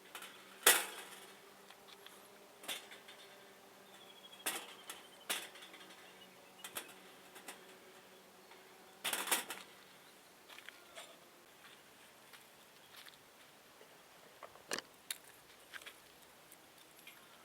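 Scattered sharp clicks and knocks, a dozen or so at uneven intervals, the loudest about a second in and a short cluster near the middle.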